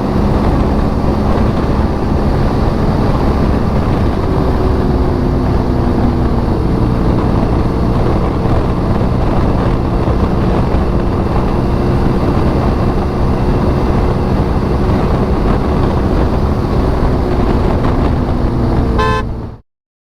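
BMW R1200 GS boxer-twin motorcycle riding at motorway speed: a steady rush of wind noise with the engine running underneath. Just before the end a short horn-like tone sounds, then everything cuts off suddenly.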